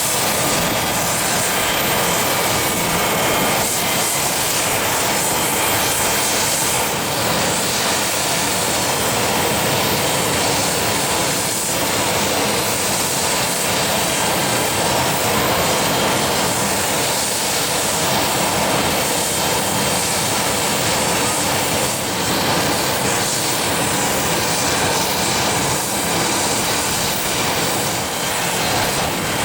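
Jet aircraft engines running steadily, a loud continuous noise that holds level throughout.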